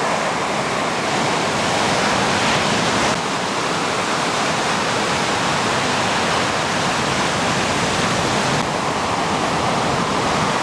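Steady rushing of water, a loud even noise with no distinct splashes or rhythm.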